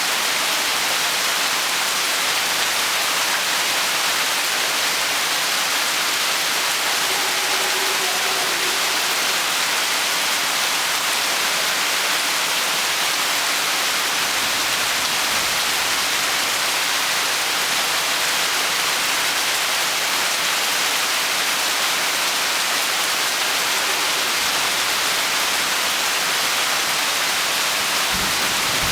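Rainstorm: rain falling steadily as a dense, even hiss. A low rumble comes in just at the end.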